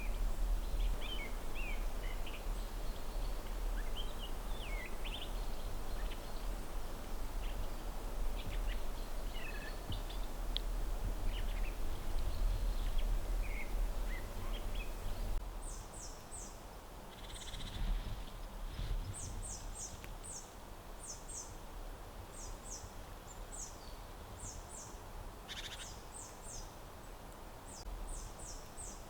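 Autumn forest ambience: small birds chirping and calling over a steady low rumble. About halfway through, the calls change to short runs of very high, thin notes, two to four at a time.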